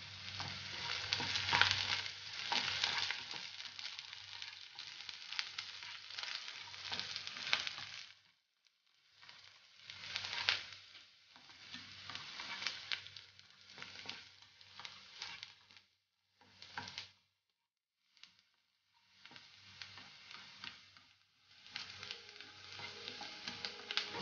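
Chopped onion and curry leaves sizzling in hot coconut oil in a non-stick pan, with the scrape of spatula strokes as they are stirred. The sound cuts out briefly a few times.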